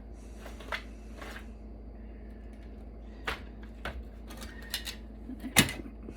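Small clicks, taps and brief scrapes of hand work on metal and circuit-board parts, as a steel bracket is worked off a server expansion card. A sharper knock comes near the end.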